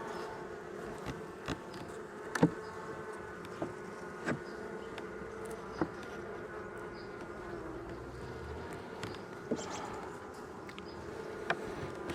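Honeybees from an open hive buzzing in a steady hum, with several sharp clicks and knocks scattered through it, the loudest about two and a half seconds in.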